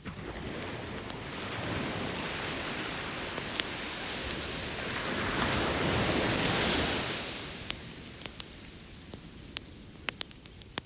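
An ocean wave washes in on the beach, a rushing swell that builds to its loudest about six seconds in and then dies away. Sharp pops and crackles from a wood campfire sound throughout.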